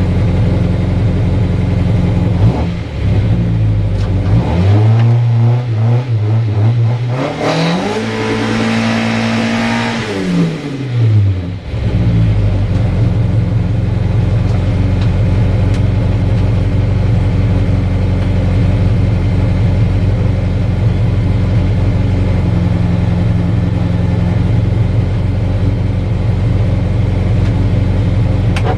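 Mazda MX-5 engine running steadily, revved up about four seconds in, held high for a couple of seconds, then dropping back to a steady run.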